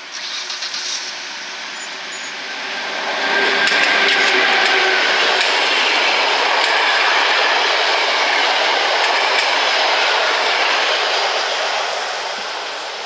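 Train passing close by: the rolling noise of its wheels on the rails grows loud about three seconds in and holds, with a thin steady whine over it and some wheel clatter. A quick run of rapid clicks comes in the first second.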